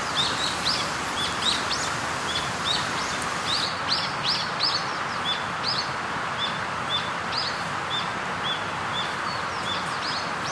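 Birds chirping, a run of short rising chirps about two to three a second, over a steady rushing background noise.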